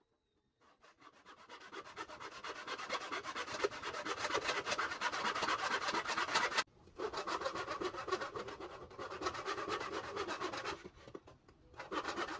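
Sandpaper rubbed by hand over a wooden furniture surface in quick back-and-forth strokes. It stops briefly about six and a half seconds in, resumes, then stops and gives one short burst near the end.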